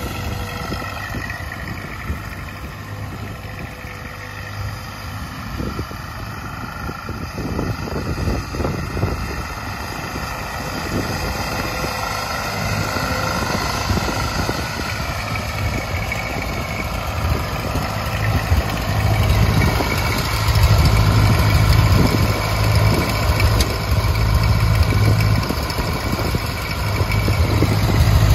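Ford 8N tractor's four-cylinder flathead gasoline engine running steadily, growing louder in the second half.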